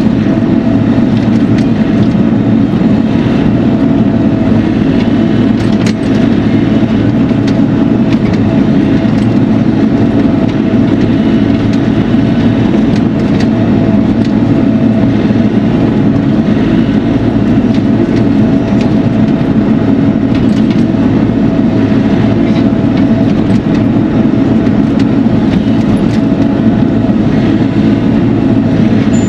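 Bobcat E42 mini excavator's diesel engine running steadily under work, heard close up from the operator's seat.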